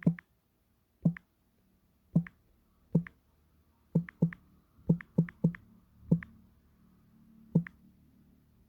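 A dozen or so sharp taps at an uneven pace, some in quick pairs, as a verification code is typed in.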